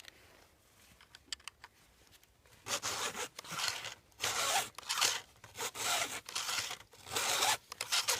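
Files of a Stihl chainsaw chain sharpener rasping over a cutter tooth and its raker, in quick back-and-forth strokes about two a second, starting a little over two and a half seconds in after a few faint clicks as the tool is set in place.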